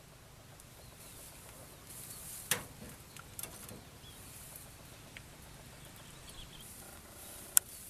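Faint birds chirping over a low background hum, with two sharp knocks, one about two and a half seconds in and one near the end.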